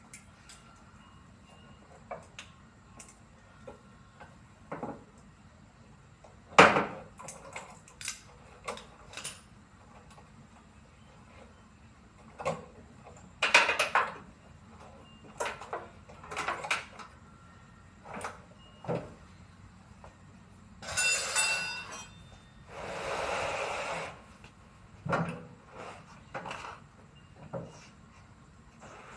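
Hand work on a front-loading washing machine being taken apart: scattered knocks and clanks of metal parts and tools, the loudest about a quarter and half of the way through. Two longer rasping noises of about a second each follow, a little over two-thirds through.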